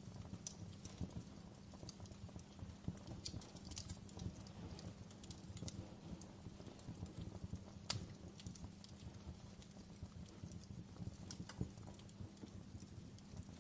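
Wood fire burning in a fireplace, crackling with irregular snaps and pops over a low, steady rumble of flames. One louder pop comes about eight seconds in.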